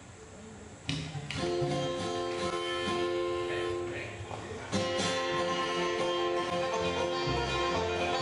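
Acoustic bluegrass band striking up an instrumental introduction about a second in. Strummed guitar chords sound under long held notes, with a second strong chord about halfway through.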